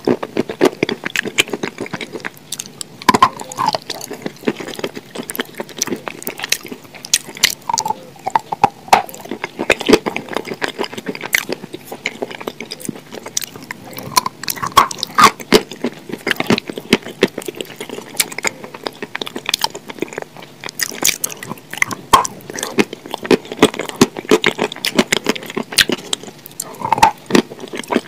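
Close-up wet chewing and lip-smacking of fried chicken coated in a thick, creamy sauce, with sticky mouth clicks and squelches coming irregularly throughout.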